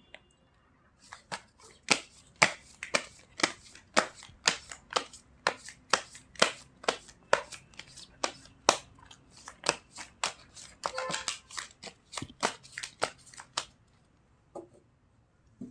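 A deck of tarot cards being shuffled by hand: a run of crisp card slaps, about two or three a second, starting about a second in and stopping near the end.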